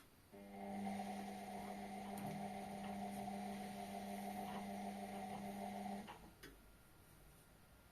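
Indesit washing machine giving a click, then a steady electrical hum for about five and a half seconds that cuts off suddenly, followed by a couple of faint clicks, near the end of its cotton 60 °C cycle.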